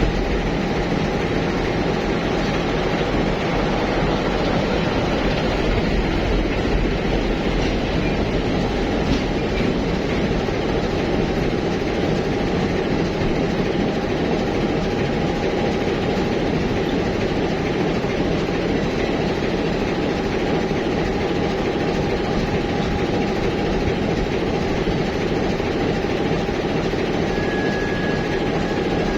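Passenger train arriving behind a TEM18DM shunting diesel locomotive: a steady rumble of rolling wheels and running gear mixed with the diesel engine's running. A thin high squeal sets in near the end.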